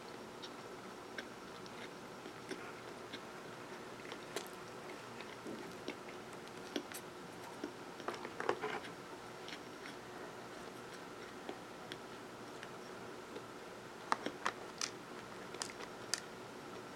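Close-up chewing of sesame-topped baked rolls with the mouth closed, with scattered crisp clicks and crunches, a cluster about halfway through and another near the end.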